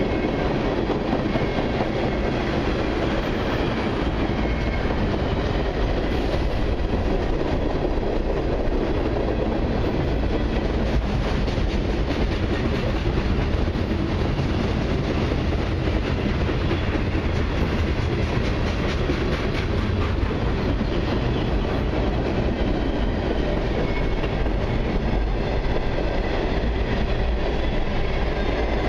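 Freight cars of a long mixed freight and autorack train rolling past: a steady rumble of steel wheels on rail with continuous clicking from the wheels.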